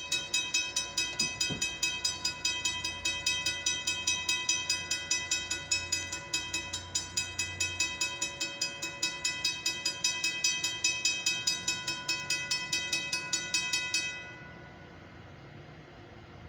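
Railroad grade-crossing warning bell ringing rapidly and evenly, about three to four strokes a second, then cutting off abruptly near the end. The crossing signals are active for an approaching train.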